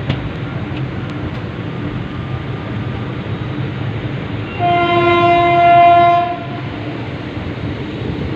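Train horn sounding once, a single steady note held for about two seconds a little past the middle, over a steady rumble of the train running.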